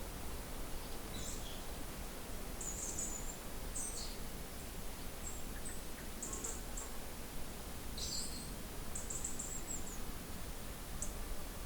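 Birds chirping in short, high calls, a few scattered bursts every second or two, over a steady low background noise.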